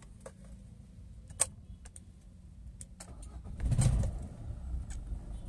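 Maruti Suzuki Ertiga engine being started: a few sharp clicks as the key is turned, then about three and a half seconds in the engine cranks briefly and catches with a surge, settling into a steady low idle.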